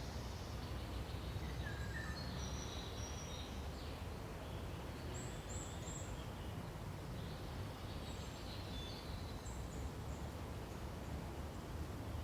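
Forest ambience: a steady rush of wind through pine trees, with short high bird chirps scattered through it, in small clusters about two seconds in, around five seconds in, and again toward the end.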